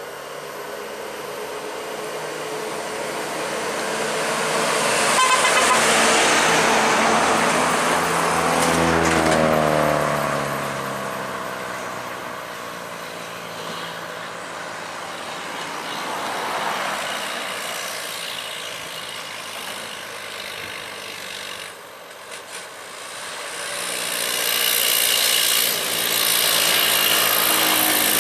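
Heavy trucks passing one after another on a highway, engines and tyres swelling and fading. One passes close about six to ten seconds in, its engine note dropping in pitch as it goes by, and another loud vehicle comes up near the end.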